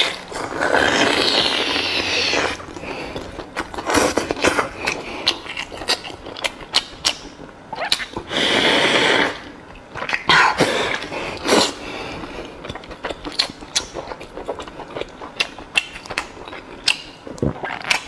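Close-miked wet chewing and lip-smacking as a woman bites into and eats tripe-wrapped beef (beef wrapped in beef stomach), with many sharp smacks and two longer, noisier stretches, one near the start and one about halfway.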